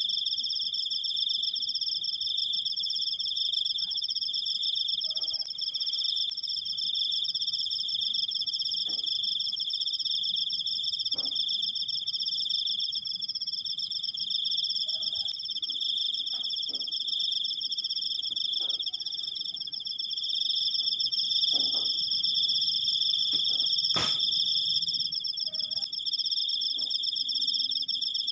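Crickets trilling continuously in one long, unbroken, high-pitched rapid trill. A single sharp click sounds about four seconds before the end.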